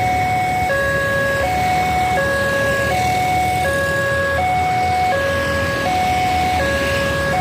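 Railway level crossing's electronic warning alarm sounding a steady two-tone hi-lo signal, each tone held about three-quarters of a second, warning that a train is approaching and the barrier is closing. A steady low rumble runs underneath.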